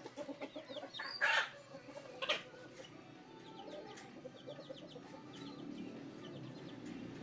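Chickens clucking in short repeated notes, with two loud, short, rasping noises about one and two seconds in.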